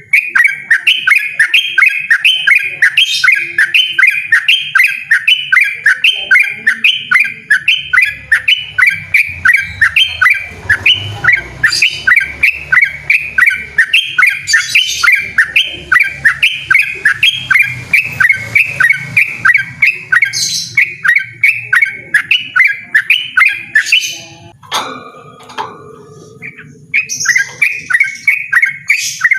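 Yellow-vented bulbul (trucukan) singing loudly: a long, fast run of evenly repeated notes, the rapid 'ropel' song. The song breaks off for a couple of seconds near the end, then starts again.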